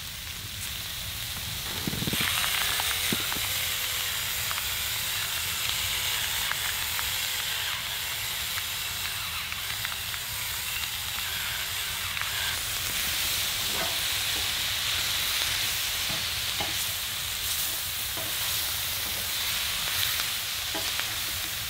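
Sliced bell peppers and onions sizzling steadily in a large cast iron skillet on a wood stove. In the second half a spatula stirring the vegetables makes scattered short scrapes and taps against the pan.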